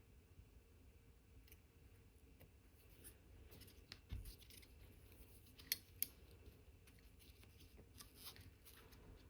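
Faint small clicks and light scrapes of watchmaker's metal tools handling the parts of an Omega Cal.1109 movement during reassembly, with two sharp clicks close together a little past the middle.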